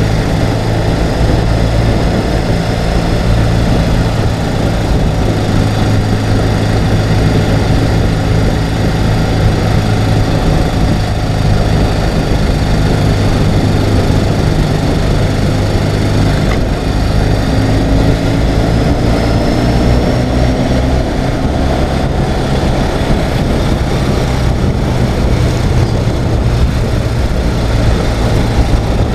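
Ural sidecar motorcycle's air-cooled flat-twin engine running steadily while riding, with a rush of noise over it; the engine note shifts a little about two-thirds of the way through.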